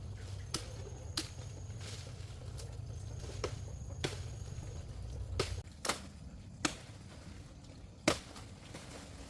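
Around ten sharp knocks at uneven intervals, the loudest near the end, over a low rumble that stops a little past halfway.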